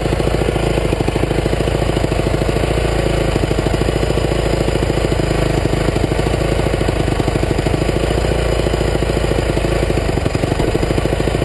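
Honda CRF250 motocross bike's single-cylinder four-stroke engine running steadily at low, even revs, its firing pulses coming fast and regular.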